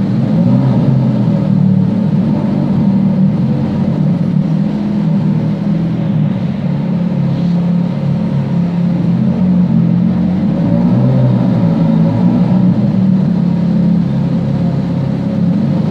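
Ferrari engine idling steadily, a low even note with no revving.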